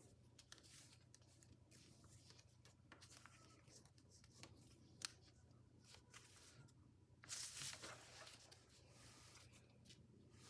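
Faint rustling and crinkling of a sheet of paper being folded and creased by hand. There is a sharp snap about halfway through and a louder burst of rustling about two-thirds of the way in.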